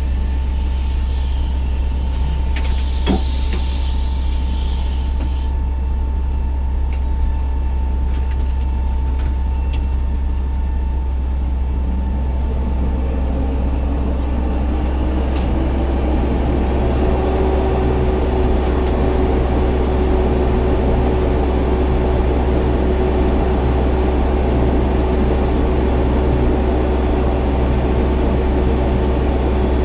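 Fire engine's diesel engine running steadily, with a hiss of air about three seconds long a few seconds in. From about twelve seconds in the engine note rises and then holds at a higher, steady speed.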